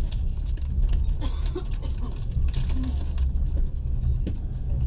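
Inside a passenger train carriage under way: a steady low rumble of the running gear on the rails, with scattered clicks and rattles from the carriage.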